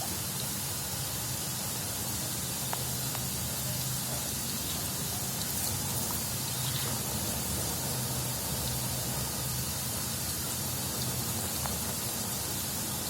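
Steady hiss of water spraying as a sea eagle is bathed, with a few faint ticks and a steady low hum beneath.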